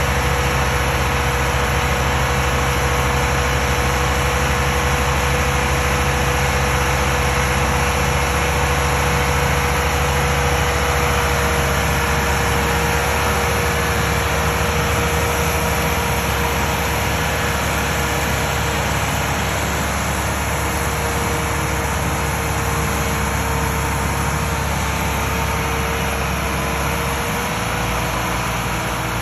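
Tractor diesel engine running steadily, a deep drone with a thin steady whine above it; the low note shifts near the end.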